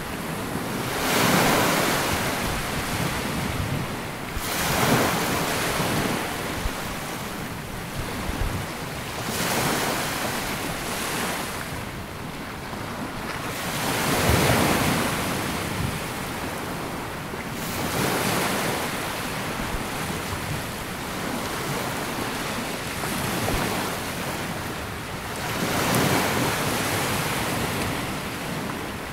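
Small sea waves breaking and washing up a sandy beach, each one swelling and fading every few seconds, with some wind on the microphone.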